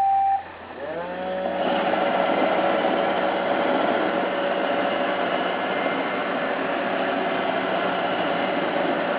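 iRobot Roomba 550 robot vacuum starting up: the last note of its start-up chime, then its motors spin up with a short rising whine about a second in and settle into a steady whirring hum.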